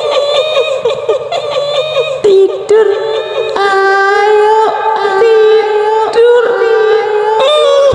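A high-pitched woman's voice giving the kuntilanak's shrill, cackling laugh for about two seconds, then singing a slow, wailing tune in long held notes, and breaking back into the cackle near the end.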